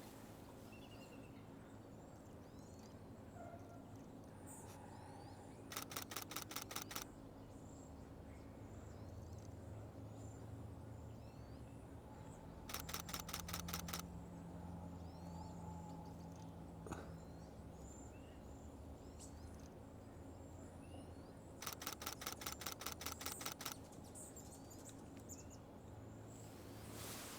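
Nikon Z6 II camera's mechanical shutter firing in rapid continuous bursts, three bursts of one to two seconds each, with faint bird chirps between.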